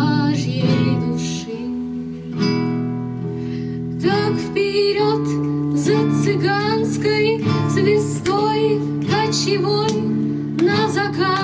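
Acoustic guitar strumming chords as song accompaniment.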